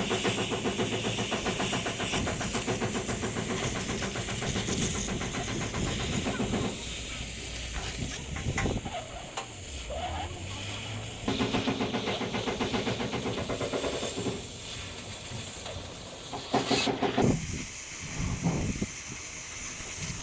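A running engine or motor with a rapid even beat and a hiss. It runs strongly, eases off about seven seconds in, and picks up again for a few seconds later on. A few sharp knocks come near the end.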